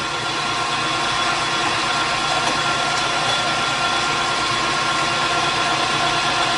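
Metal lathe running steadily, turning a part down in diameter, with a steady whine over the even noise of the machine.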